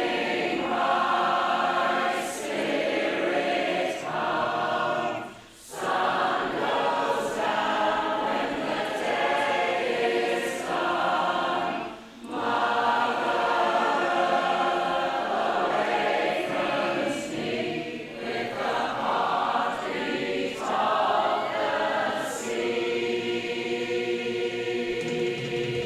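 Women's choir singing in sustained phrases, with brief pauses for breath between some of them.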